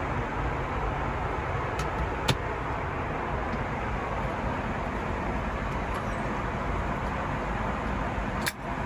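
Steady rushing cabin noise inside an Airbus A321neo airliner, with a sharp click a couple of seconds in and a brief dip in level near the end.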